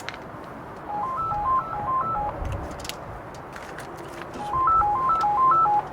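Electronic phone ringtone: a short melody of clean beeps stepping up and down in pitch, played twice with a pause between.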